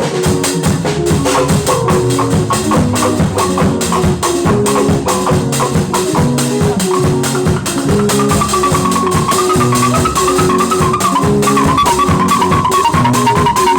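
Live band music: a drum kit keeping a steady, busy beat under a repeating low riff, with a higher melody line coming in about halfway.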